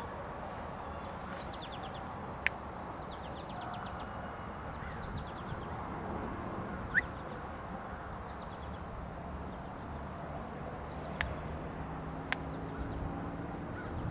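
A diesel freight locomotive approaches from a distance as a low steady rumble, with its engine hum growing in the last few seconds. Birds chirp and trill over it, with one short rising chirp about halfway through.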